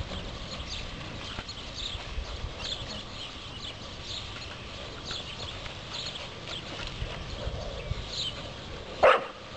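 A bird repeats short high chirps about once a second over a low rumble. About nine seconds in comes one brief, loud cry.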